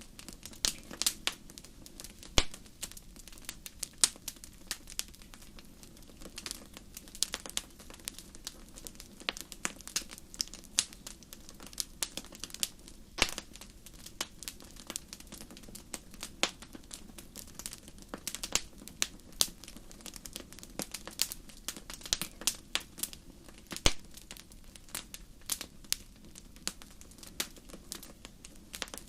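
Wood fire crackling in a fireplace: irregular sharp pops and snaps, several a second, some much louder than others, over a soft low hiss of burning.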